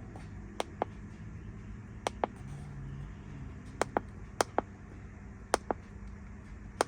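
Button clicks from a handheld OBD code scanner, pressed six times in quick click pairs while the stored misfire codes are cleared, over a low steady hum.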